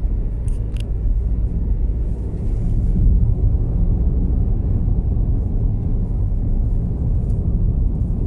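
Car driving on a narrow road, heard from inside the cabin: a steady low rumble of engine and tyre noise.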